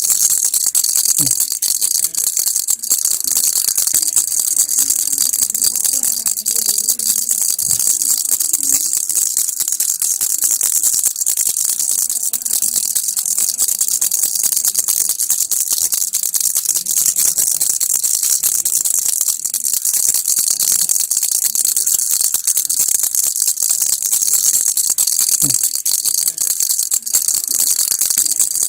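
Baby rattle toy (kilukki) shaken continuously, a fast, dense, unbroken rattling of many small clicks at a steady level.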